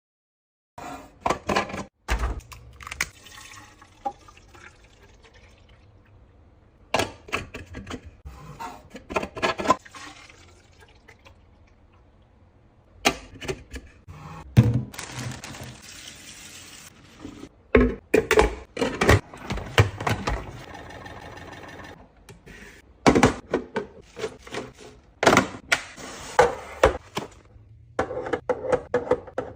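Containers being handled and set down during fridge organising, in clusters of knocks, clicks and clatters. A few seconds of liquid sound come about midway.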